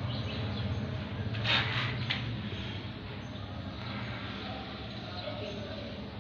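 Caged parrots chirping faintly over a steady low hum, with a brief rustling noise about a second and a half in.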